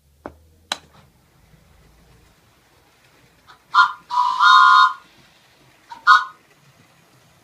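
Train whistle blowing: a short blast, a longer one held for nearly a second, then another short blast. Two sharp clicks come before them, near the start.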